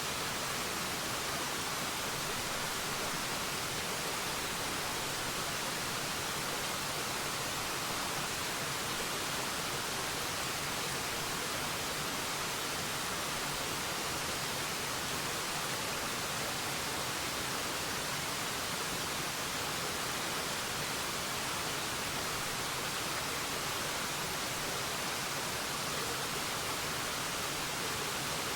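Waterfall: water pouring and splashing in a steady, unchanging hiss, strongest in the higher tones.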